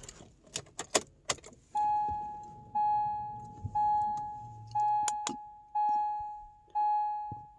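A few sharp clicks and rattles, then a car's electronic warning chime dinging six times, about once a second, each ding fading before the next.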